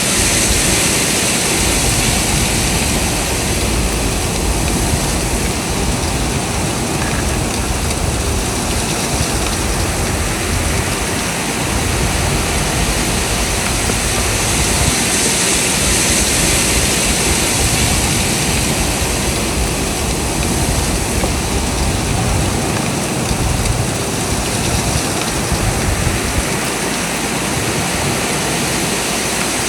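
Strong blizzard wind blowing in gusts: a steady rushing hiss that swells and eases, with uneven low buffeting rumbles beneath.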